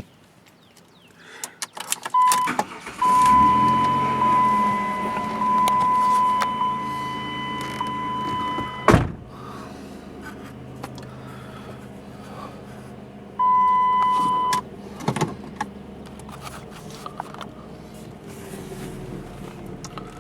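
A car's warning chime holds one steady tone while the engine runs. A loud thump, like a car door slamming, cuts the chime off about nine seconds in. The chime sounds again for about a second a few seconds later.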